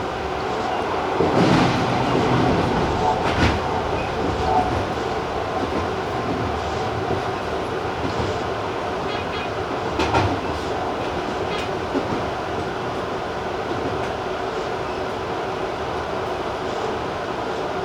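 Electric commuter train running along the track: a steady rolling rumble with a few sharp clacks as the wheels cross rail joints, the loudest near the start and about ten seconds in.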